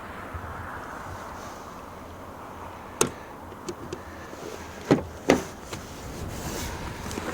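Sharp clicks and clunks of a Mercedes-Benz E300's latches being worked by hand: one click about three seconds in, a couple of light ticks, then two louder clunks close together near five seconds, over a steady low background hum.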